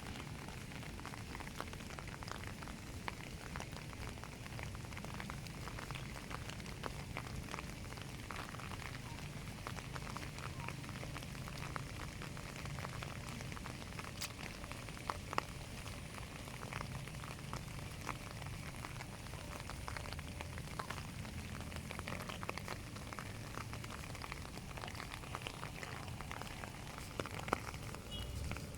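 Steady rain falling: a constant hiss thick with small ticks of drops hitting, over a low steady rumble.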